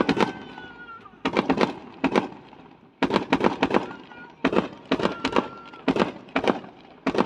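Fireworks bursting in quick succession: clusters of sharp bangs with a short echoing tail, a new cluster about every second.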